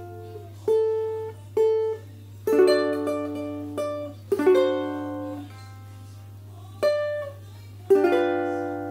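Ukulele in high-G GCEA tuning with Living Water strings, playing a simple tune of single plucked notes and a few strummed chords that ring and fade, over a steady low hum.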